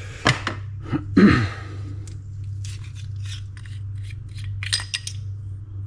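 Small metal parts of a fishing reel being handled on a workbench. A few sharp clicks and knocks come in the first second and a half, then a run of short scrapes.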